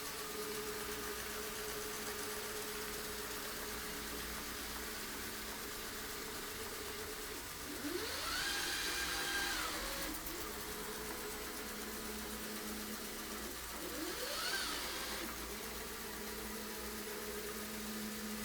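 Rowenta Explorer Serie 60 robot vacuum running with a steady motor hum. Twice, about eight seconds in and again around fourteen seconds, its motor whine rises in pitch, holds briefly and drops back.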